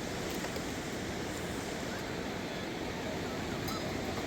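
A river in flood rushing past: a steady, unbroken noise of fast-moving water.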